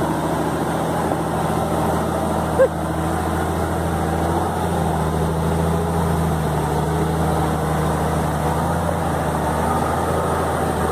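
Toyota SW4 engine running steadily and heavily under load while towing a trailer through mud.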